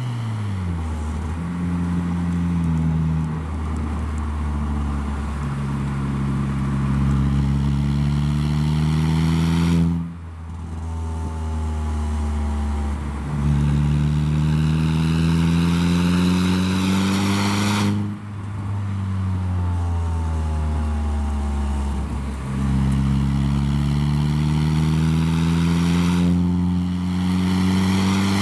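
Saab 9-3 running through a handmade stainless-steel exhaust with a switching valve, pulling through the gears. The engine note climbs steadily, drops at upshifts about ten and eighteen seconds in, then climbs again.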